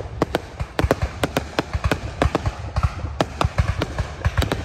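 Aerial fireworks bursting overhead: a rapid, irregular series of sharp bangs and crackling pops, about four or five a second, over a low rumble.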